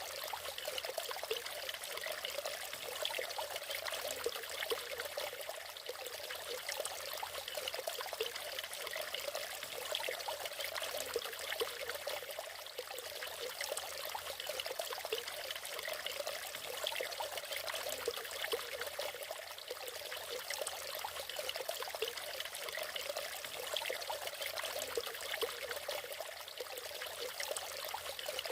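A natural waterfall splashing and trickling steadily, a busy patter of small splashes with no deep roar.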